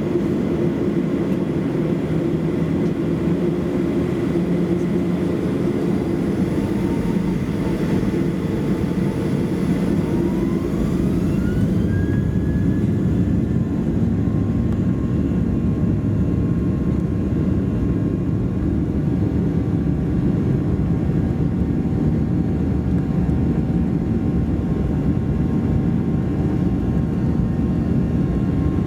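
Boeing 737-800's CFM56 turbofan engines heard from inside the cabin at takeoff: a loud, steady rumble, with a thin whine that rises in pitch about ten seconds in as the engines spool up.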